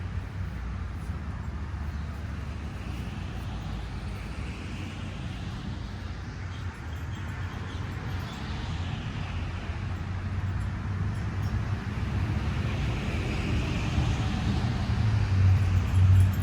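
Steady road traffic noise with several vehicles passing, and a low engine hum that grows louder near the end.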